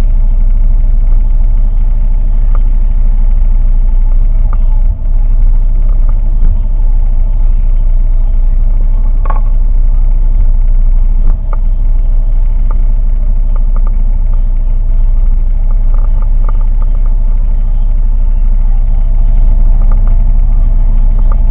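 A boat's motor running steadily at constant speed, a loud, even low drone with a few faint clicks over it.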